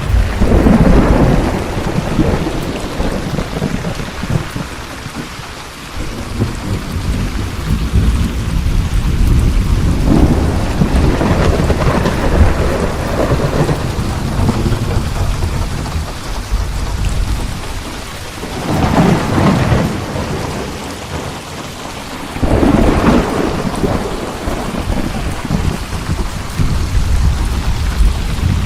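Thunderstorm: steady rain with rolling thunder, the low rumbles swelling and fading four times, loudest near the start and again at about 19 and 23 seconds.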